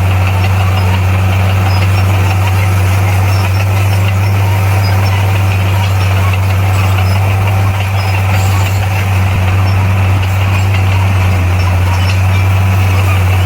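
Bulldozer's diesel engine running steadily, a constant drone with no change in speed.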